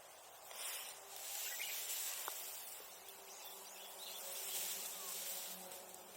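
Bonfire burning: a rushing hiss of flames that swells and fades twice, with a single sharp crackle about two seconds in.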